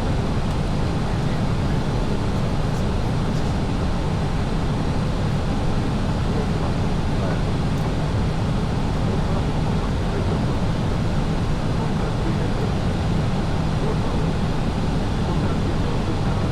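Steady rumble and rush of an Airbus airliner heard from inside the aircraft, the engine and airflow noise holding constant with no change in level.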